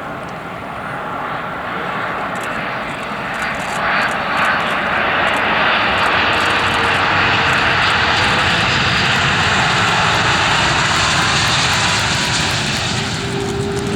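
Jet airliner's engines as it passes by, the noise swelling over the first few seconds, holding loud and easing a little near the end.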